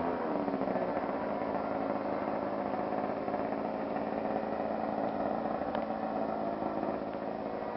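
O.S. 55AX two-stroke glow engine of a radio-controlled Edge 540 aerobatic plane running in flight. It holds a steady buzzing pitch after a brief pitch glide at the start.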